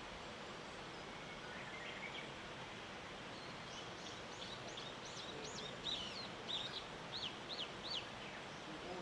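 A small songbird calling a quick series of short, high chirps, starting faintly about four seconds in and loudest near the end, over a steady background hiss.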